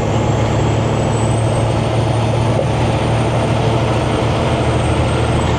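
Semi-truck diesel engine and road noise droning steadily from inside the cab while cruising.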